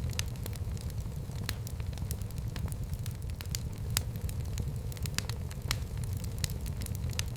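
Fire in a fireplace crackling, with irregular sharp pops over a steady low rush of the flames; one pop about four seconds in stands out as the loudest.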